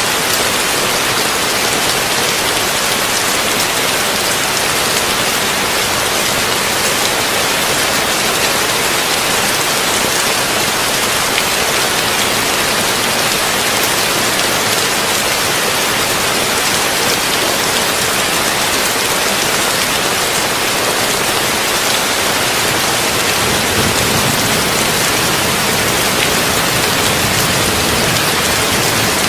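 Heavy rain drumming on a tin roof: a steady, dense hiss of many drops. A soft low rumble grows in near the end.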